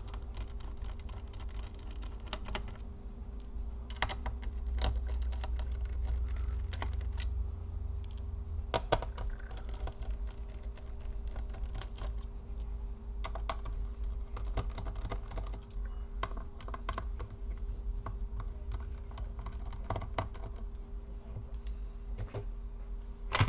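Irregular small clicks and taps of a screwdriver and tiny screws on a laptop's plastic base as the bottom screws are removed, over a steady low hum.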